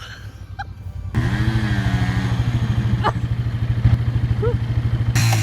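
Motorcycle engine running with a rapidly pulsing low note that starts abruptly about a second in and holds steady, with a single click in the middle.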